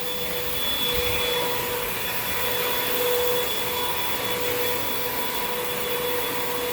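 Hoover WindTunnel 2 Rewind upright vacuum cleaner running steadily, its motor giving an even rush of air with a steady whine over it.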